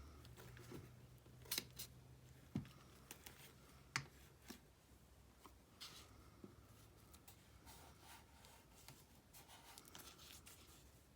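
Scrapbook paper being cut and handled: faint snips and rustles with a few sharp clicks, spread unevenly and strongest in the first four seconds.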